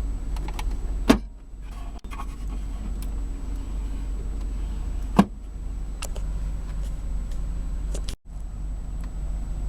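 Steady low hum of the idling 5.7 L V8 heard inside the cabin, with two sharp plastic clicks from the middle console and its coin holders being handled, one about a second in and one about five seconds in. The sound cuts out for an instant about eight seconds in.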